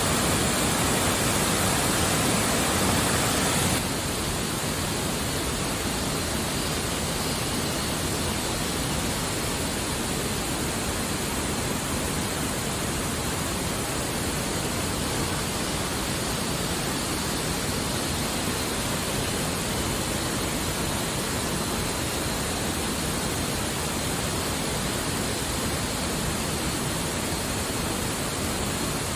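Steady rushing noise with no rhythm or pitch, dropping a little in level about four seconds in.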